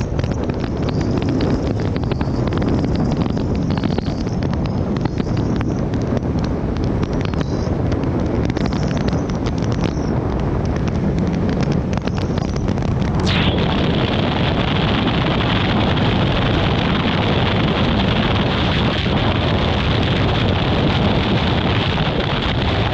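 Steady rush of wind buffeting the microphone and road noise from a car driving along. About 13 seconds in, the rush turns fuller and louder.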